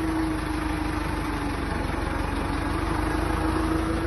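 Farm tractor engine running steadily, its note sagging slightly about halfway through and then recovering.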